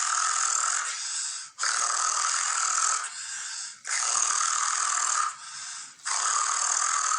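A person rolling a forceful, voiceless trilled R with the tongue, the easy mouth imitation of a cricket's chirp. It comes in long rattling breaths of about a second and a half each, four in all, with short pauses between.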